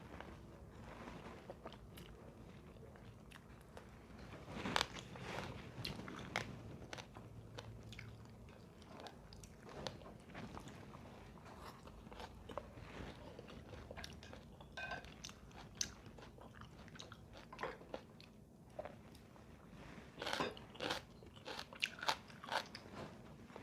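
A person chewing food close to the microphone, with crisp crunching bites and small mouth clicks, the loudest bunched about five seconds in and again near the end.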